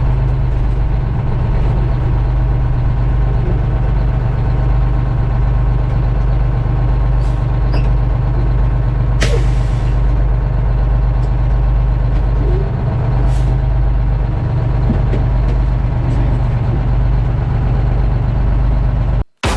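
A GMC Crackerbox semi truck's two-stroke Detroit Diesel engine runs loudly at a steady speed. A short hiss comes about halfway through, and the sound cuts off suddenly near the end.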